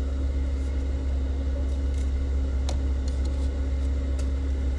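Steady low hum of a car idling, heard from inside the cabin, with one light click a little past halfway.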